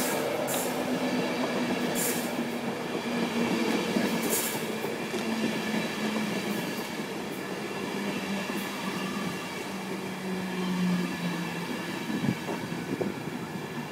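Class 91 electric locomotive-hauled East Coast express running slowly into the platform. A steady whine slides slowly down in pitch as it slows, and a few wheel clicks come over rail joints in the first few seconds.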